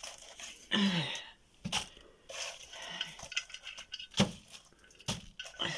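Scattered clinks and knocks of dishes or utensils, with a short falling vocal sound about a second in.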